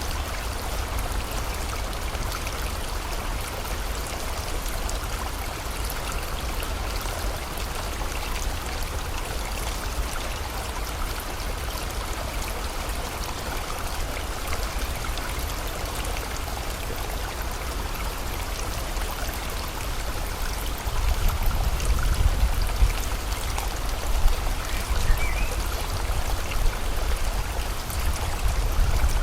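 Steady rushing of a flowing stream with rain. About 21 seconds in, a low rumble swells beneath it and the level rises in uneven surges.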